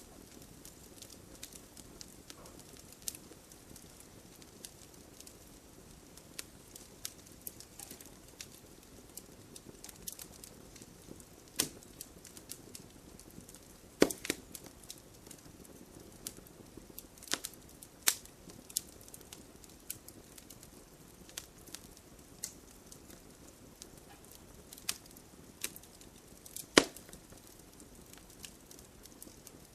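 Wood campfire crackling: scattered sharp pops and snaps at irregular intervals over a soft, steady hiss of burning, with a few louder pops.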